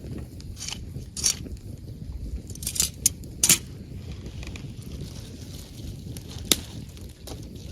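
Wood campfire burning and crackling. Several sharp pops come in a cluster in the first half, and one more sharp crack comes near the end, over a steady low rumble.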